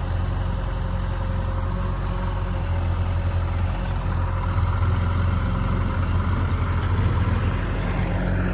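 A heavy diesel engine running steadily.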